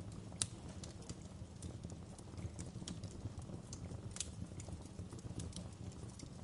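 Wood fire burning in a fireplace: a steady low rumble of flames under irregular sharp crackles and pops, with the loudest pops about half a second in and about four seconds in.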